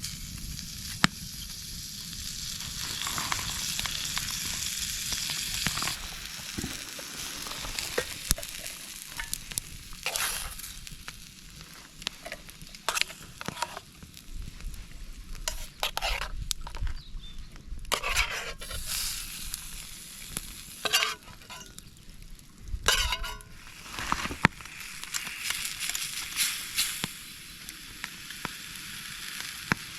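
Steak sizzling in a very small frying pan, with short knocks and scrapes of a utensil now and then.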